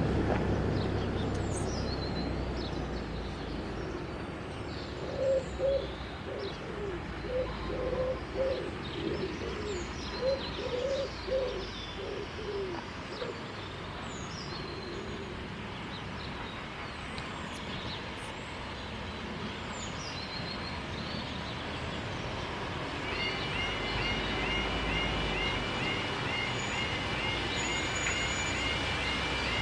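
Birdsong: a pigeon cooing in several short phrases, with small birds chirping throughout and a fast repeated high trill starting near the end. A louder passing sound, likely a train, fades away at the start.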